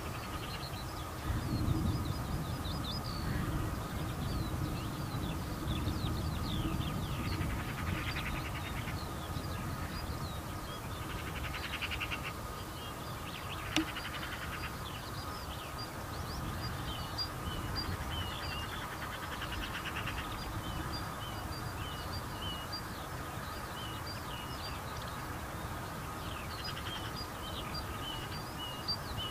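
Several songbirds chirping and calling over a low steady rumble, with a faint steady whine underneath. A single sharp click comes about fourteen seconds in.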